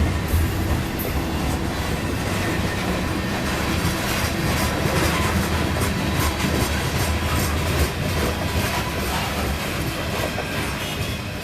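Cars of a freight coal train rolling past, their wheels clicking over the rail joints over a steady low rumble.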